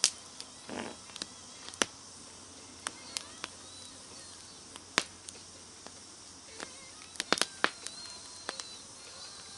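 Wood campfire crackling, with sharp irregular pops and snaps over a faint steady hiss, and a quick run of pops about seven seconds in.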